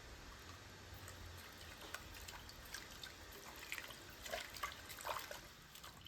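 Faint, irregular drips or small plinks of water, a dozen or so scattered over a few seconds, fading out near the end.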